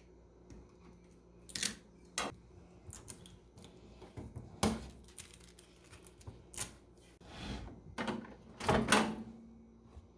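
Unpacking noises: a string of scattered clicks, knocks and short rustles as packing materials and parts of a new microwave are handled and pulled out.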